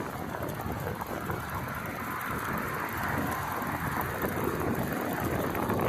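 Steady rushing noise of wind on the microphone mixed with road traffic, heard from a bicycle being ridden along a road.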